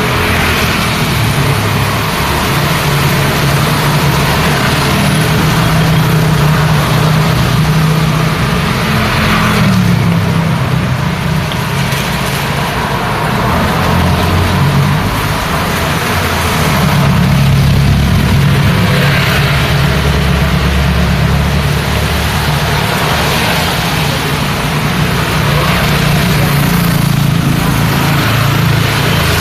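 Road traffic in the rain: car and motorbike engines running and passing one after another, with a low hum that swells and fades, over a steady hiss of rain and wet tyres.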